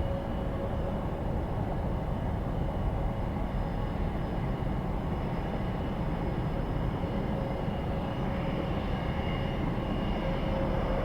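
Jet airliner engines running steadily: a low rumble under a steady whine.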